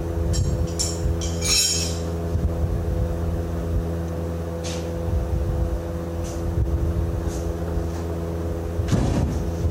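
Engine running steadily at a constant speed, with occasional short clicks or clinks: a cluster in the first couple of seconds, then single ones later.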